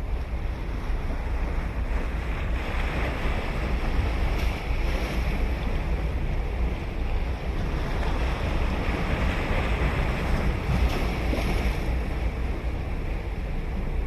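Ocean surf breaking and washing onto a sandy beach in a continuous roar of waves, with wind buffeting the microphone as a low rumble. The surf swells a few seconds in and again near the end.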